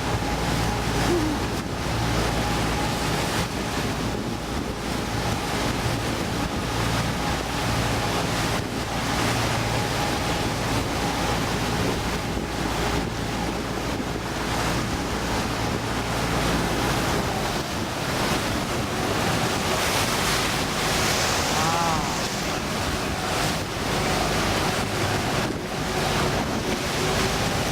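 Motorboat running steadily, with its engine hum under wind buffeting the microphone and water rushing past the hull.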